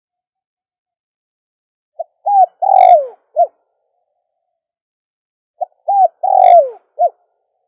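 Spotted dove cooing: two identical calls about three and a half seconds apart, each a short phrase of four notes, the third note longest and loudest and falling in pitch at its end.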